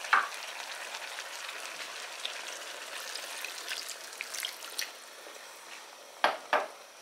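Chicken pieces and sliced onions sizzling in a pot, a steady crackling hiss with small pops. Water is poured in from a glass partway through, and the sizzle then quietens somewhat. Two sharp knocks near the end.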